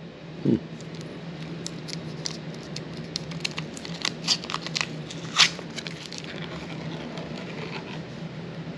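A tin of sardines being opened by hand: scattered small clicks, scrapes and crinkling as the lid is worked open, with one sharper click about five and a half seconds in.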